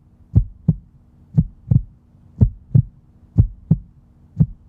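Heartbeat sound effect: slow lub-dub double thumps, about one beat a second.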